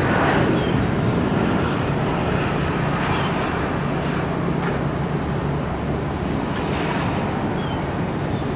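Jet airliner engine noise as it rolls out along the runway after landing: a loud, steady roar that eases slightly over the seconds.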